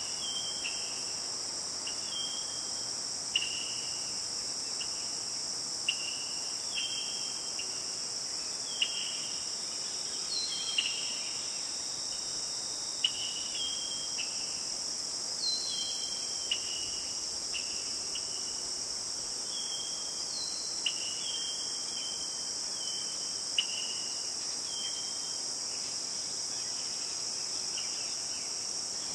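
A steady, high-pitched chorus of crickets and other insects, with short chirping calls repeating irregularly over it and a few sharp clicks every few seconds.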